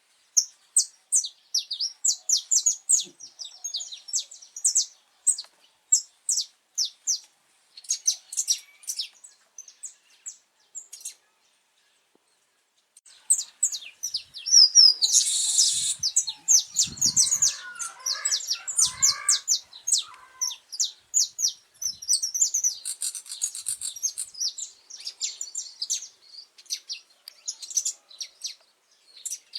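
Saffron finch singing: phrases of rapid, high, sharp chirped notes, with a pause of a couple of seconds about a third of the way in and a denser, busier stretch in the middle that includes a brief noisy burst and some lower warbled notes.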